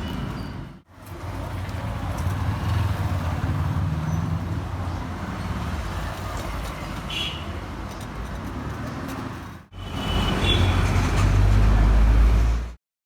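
Road traffic and street noise with a low rumble, in three pieces separated by two brief dropouts; it is loudest in the last piece and cuts off abruptly near the end.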